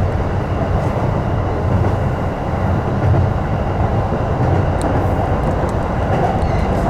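Electric commuter train running at speed, heard from inside the leading car: a steady rumble of wheels on the rails with a low throb that swells and fades every second or so.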